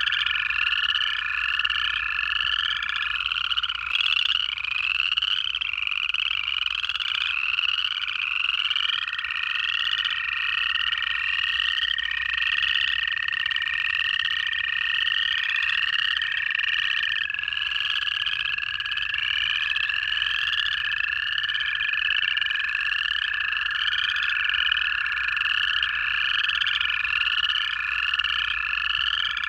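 Dense pond chorus of upland chorus frogs: their rising trilled calls repeat over and over, overlapping. Beneath them, lower, steady American toad trills, each held for many seconds, run through most of the stretch.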